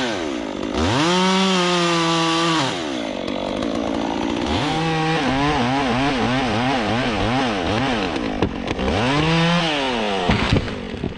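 Two-stroke chainsaw cutting through a tree trunk. It revs up to a high, steady pitch and holds it, drops back, wavers quickly up and down for a few seconds as the throttle is worked in the cut, then revs up and holds again before falling off near the end.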